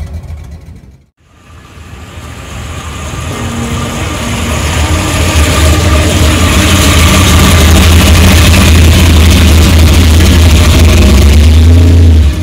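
Classic Chevy II Nova's engine running loud with a deep exhaust rumble close by, growing louder over the first few seconds and then holding steady as the car pulls away. The sound drops out briefly about a second in.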